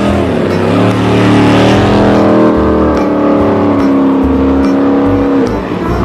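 Car engine revving: the pitch climbs in the first second, holds high and steady, then drops away near the end.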